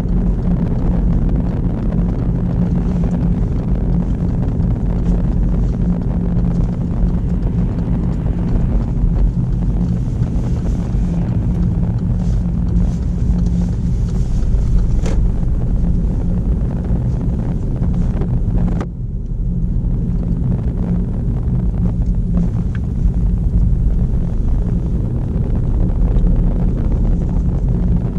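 Inside a petrol car's cabin on the move: a steady low engine and road rumble with some wind hiss. The hiss drops away abruptly about two-thirds of the way through while the rumble carries on.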